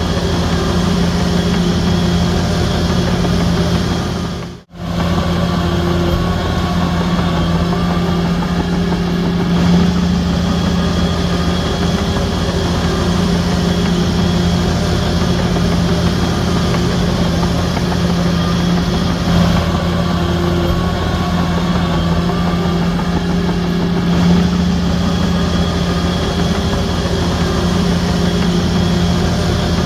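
Bulldozer's diesel engine running steadily with a strong, even hum. The sound drops out abruptly for a split second about four and a half seconds in and then carries on unchanged.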